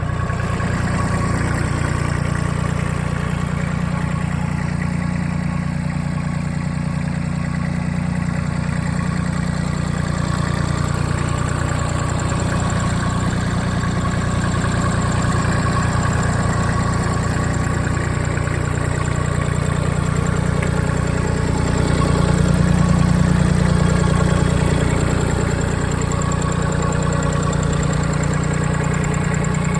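JCB 327 HST compact tractor's diesel engine running steadily at idle, swelling slightly in speed a little over twenty seconds in.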